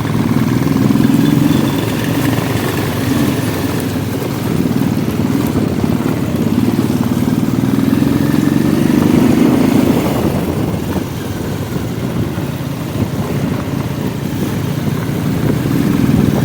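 Motorcycle engine running as it is ridden, its pitch rising and falling with the throttle.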